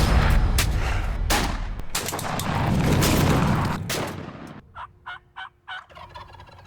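Loud produced intro sound effects, with heavy booming hits and rushing noise. About two-thirds of the way in they give way to a wild turkey gobbler's gobble, a quick rattle of about five notes.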